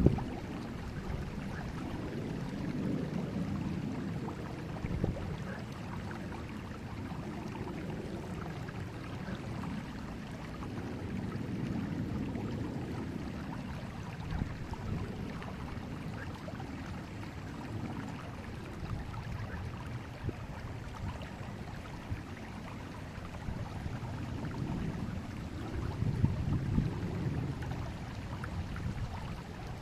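River water flowing: a steady low rush that swells and eases every few seconds.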